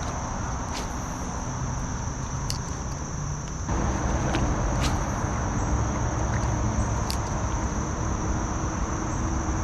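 Crickets trilling steadily over a low outdoor rumble that grows louder about four seconds in, with a few sharp clicks scattered through.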